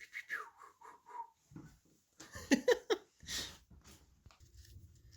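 Siberian husky whining: a quick run of short, high whimpers falling in pitch, then a few louder, lower vocal calls about two and a half seconds in.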